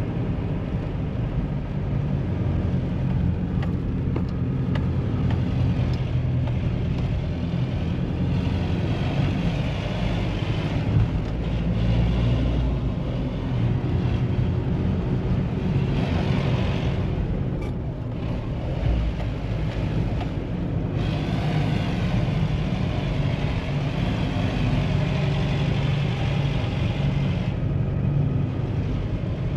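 Mahindra Bolero SUV being driven: a steady low drone from its diesel engine mixed with road and tyre noise, the engine note rising and falling with the driving.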